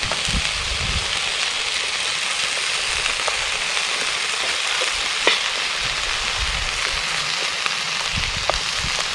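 Fillet steak, mushrooms and onions frying in a pan: a steady sizzle with scattered pops and crackles, one louder pop about five seconds in.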